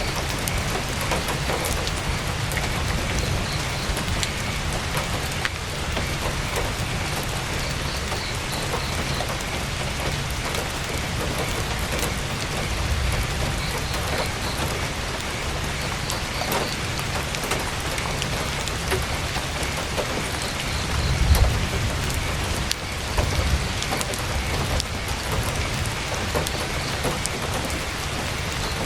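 Heavy rain drumming steadily on a tent's fabric, scattered with sharp drop ticks, and a brief louder low rumble about three-quarters of the way through.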